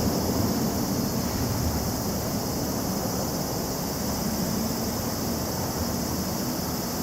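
Chorus of many cicadas buzzing steadily in high, unbroken drone, over a low rumble.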